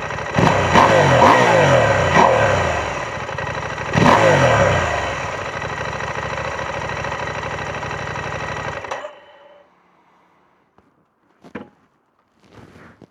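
KTM 790 Adventure S parallel-twin engine on its stock exhaust, idling with several quick throttle blips in the first four seconds, then back to a steady idle until it is switched off about nine seconds in. Two short, faint clicks follow near the end.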